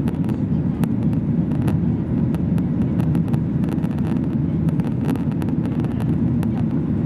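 Steady low cabin roar of a Boeing 737-800's CFM56-7B engines and airflow, heard from a seat inside the cabin, with faint light ticks and rattles scattered throughout.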